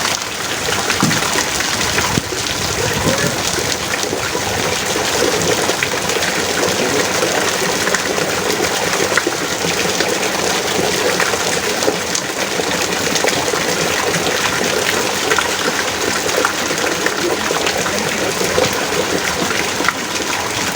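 Heavy rain pouring steadily, a dense unbroken patter of drops.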